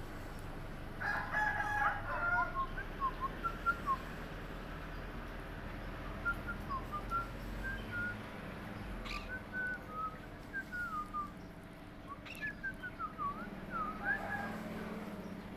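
Pet parrot chirping and whistling in quick short notes that slide up and down, in three runs separated by short pauses.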